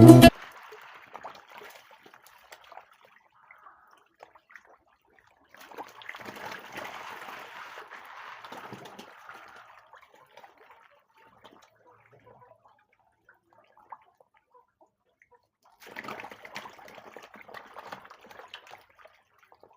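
Plucked-string background music cuts off at the very start. Then comes faint splashing and trickling of pond water in two spells of a few seconds each.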